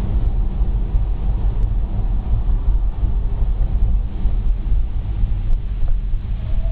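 Steady low rumble of a moving car, road and engine noise picked up by a dashcam's microphone.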